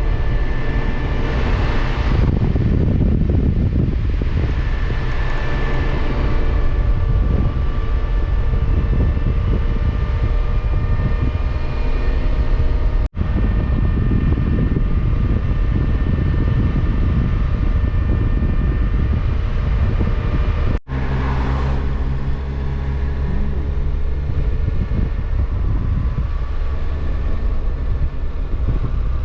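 Kawasaki Versys motorcycle riding at a steady cruise: a constant engine drone under heavy wind rumble on the microphone. The sound cuts out very briefly twice.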